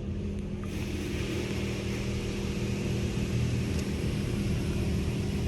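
PDQ LaserWash 360 Plus car wash machinery running overhead with a steady droning hum while water sprays onto the vehicle, the spray hiss growing about a second in. The railing noise sounds bad to the driver, who thinks it needs looking at.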